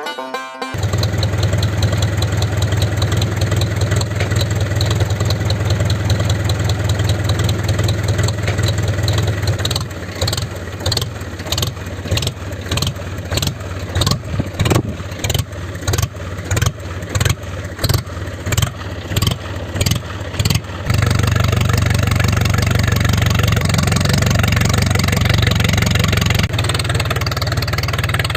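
Motor of a DIY mini tractor running with a steady hum, then cutting in and out in quick pulses for about ten seconds, then running steadily again a little louder. It is pulling a heavy trolley of wood.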